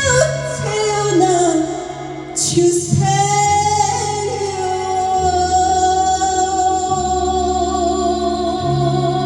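A singer holds the final long note of a slow ballad with slight vibrato, over sustained keyboard chords and a held bass line.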